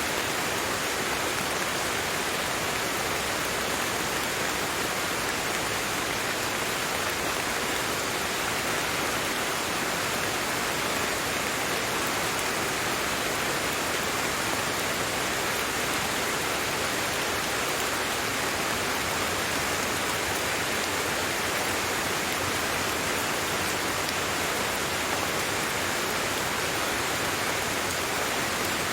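Steady rain: an even, unbroken hiss with no distinct drops, thunder or other events.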